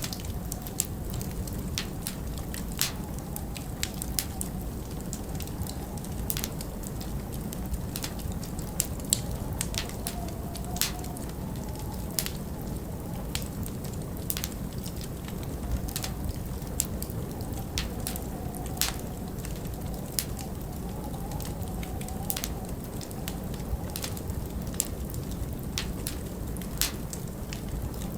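Wood fire in a fireplace crackling, with irregular sharp pops, several a second, over a steady low rumble of winter wind with a faint wavering howl.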